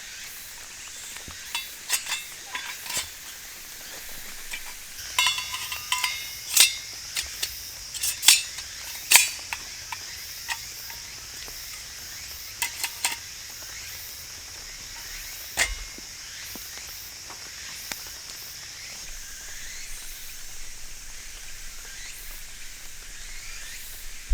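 Food sizzling in a pan over a small fire, with scattered sharp clicks and a run of metal clinks from cookware and utensils about five to nine seconds in.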